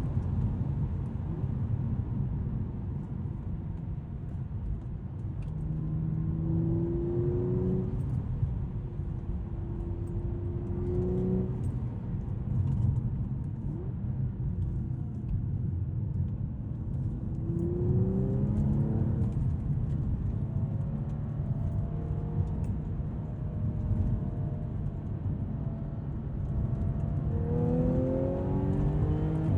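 2012 Audi S5's supercharged 3.0-litre V6 under way, its engine note climbing in pitch several times as the car accelerates, over a steady low road rumble.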